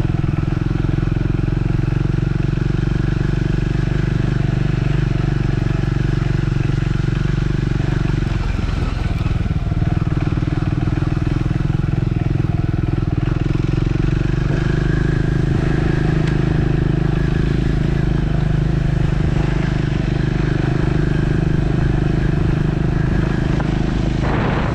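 Triumph Scrambler 400 X's single-cylinder engine running steadily under way. The engine note breaks briefly about a third of the way in and settles at a different pitch about halfway through.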